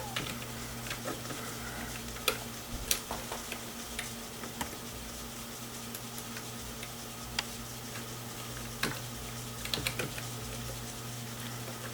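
Desktop PC running with a steady low hum, with scattered light clicks and ticks over it.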